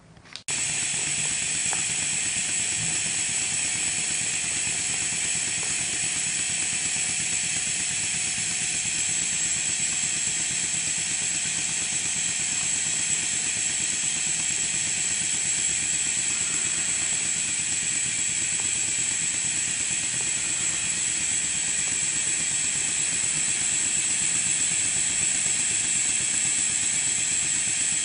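Maxwell Hemmens model colliery steam engine running on compressed air: a steady hiss of air exhausting with a fast mechanical clatter, starting suddenly about half a second in.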